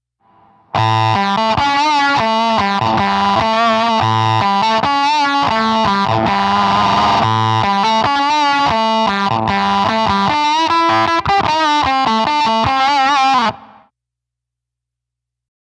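Electric guitar played through a Walrus Audio Kangra fuzz pedal: a distorted riff of many notes starting about a second in. It stops abruptly near the end.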